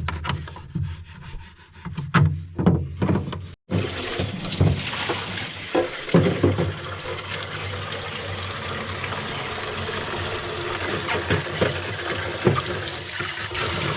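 A toothbrush scrubbing the inside of a plastic dehumidifier bucket, with a few knocks. After a short break, a tap runs steadily with water splashing into the bucket, slowly getting louder.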